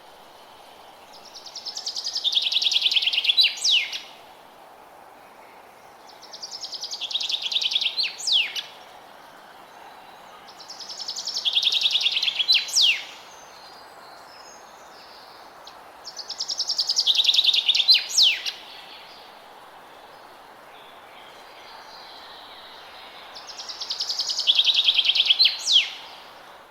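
An animal call repeating about every five seconds: a fast pulsing, buzzy trill that swells louder over about two seconds, then ends in two quick upward-sweeping chirps. Five such phrases sound over a steady background hiss.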